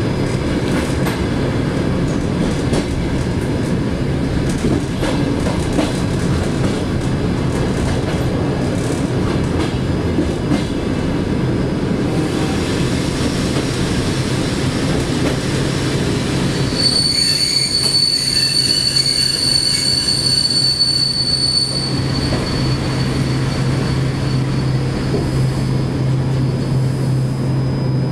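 Passenger train running, heard from the rear vestibule of the last car: a steady rumble of wheels on rail with repeated clicks over the joints. About two thirds of the way through, a high steady metallic squeal from the running gear sets in and lasts about five seconds.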